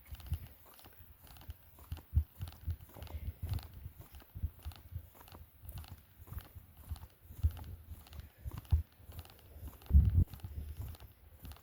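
Footsteps walking along a dirt trail, steady, about two steps a second, with a heavier thud about ten seconds in.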